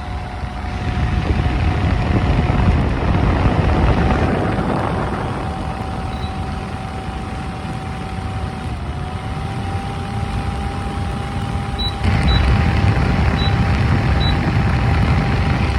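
Honeywell HAC8 window air conditioner running: a steady hum over a loud rushing rumble, which gets louder about twelve seconds in. A few short high beeps sound over it.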